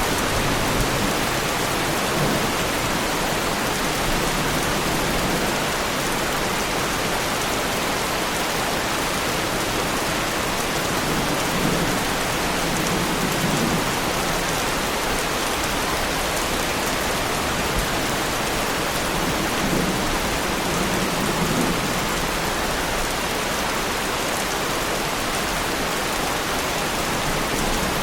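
Heavy rain falling steadily on a car's body, with a couple of soft low rumbles of thunder.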